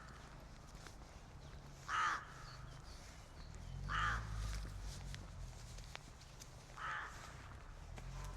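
A bird calling three times, short harsh calls two to three seconds apart, over a low steady city rumble.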